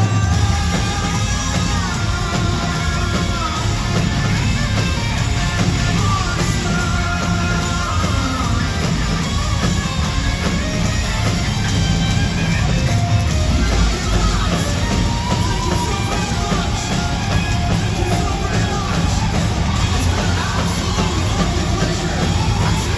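Live rock band playing loud, heavy music with drums, guitars and bass, under sung and shouted lead vocals.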